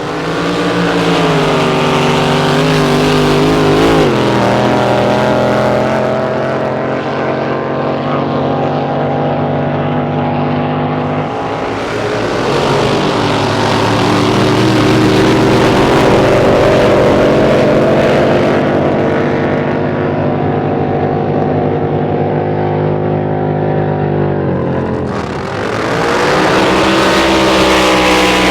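Drag boat engine running loud at steady revs, with a rich stack of tones. The revs dip and shift briefly about four seconds in, again around twelve seconds, and near the end.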